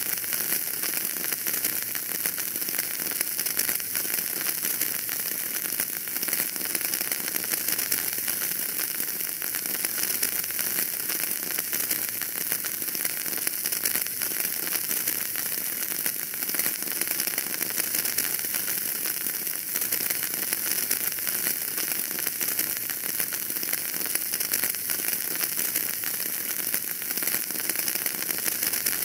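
Wood fire burning in a fireplace, crackling steadily with a dense run of small pops over a hiss.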